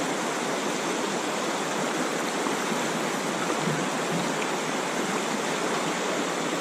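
Steady rush of river rapids: water pouring over a drop-off, an even hiss with no breaks.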